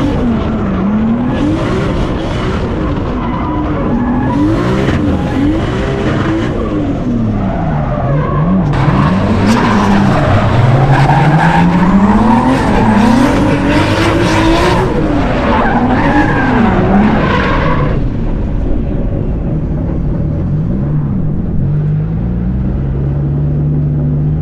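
Turbocharged 2JZ straight-six in a drifting Nissan S14, revving up and down again and again, with the tyres squealing and skidding through the middle stretch. Near the end it settles into a steadier, slowly rising pull.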